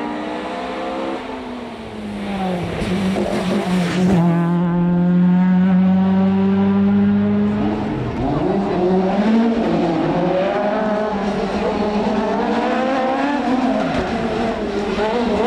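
Rally car engine running hard at high revs: the pitch climbs, holds steady for a few seconds, then rises and falls repeatedly through gear changes and lifts.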